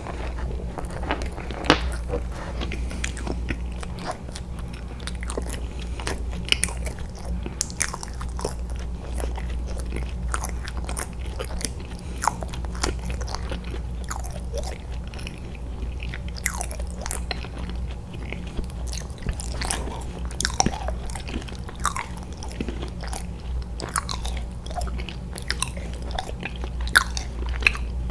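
Close-miked eating sounds: someone biting and chewing soft, chewy candy, with many short irregular clicks and crunches, over a steady low hum.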